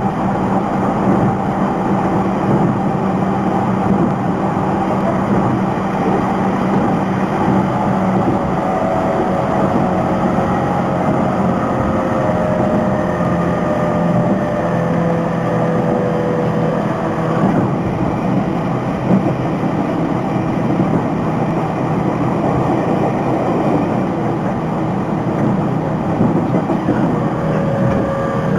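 Takasaki Line electric train running between stations, heard from inside a passenger car: a steady rumble of wheels on rail with faint motor tones that slowly fall in pitch.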